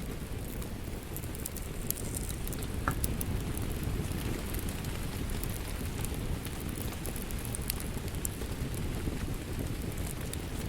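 Wood fire crackling: a steady low rush of flame with scattered sharp pops and snaps.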